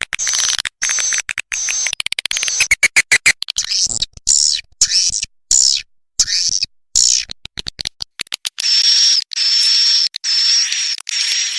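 Swiftlet lure recording of the kind played in swiftlet nesting houses: fast runs of buzzy twittering chirps and sharp clicks, turning in the last few seconds into a series of longer high, buzzy calls of about half a second each, with short gaps between them.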